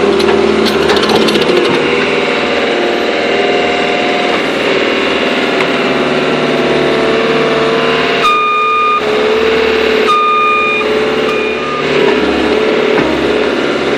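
Caterpillar 287C compact track loader working, its diesel engine running steadily. About eight seconds in its reversing alarm starts, a beep of under a second repeating roughly every second and a half.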